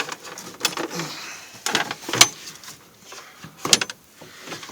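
Intermittent clicks, knocks and scraping of air intake parts being handled and worked loose in a pickup's engine bay, with the sharpest knocks about two seconds in and again near the end.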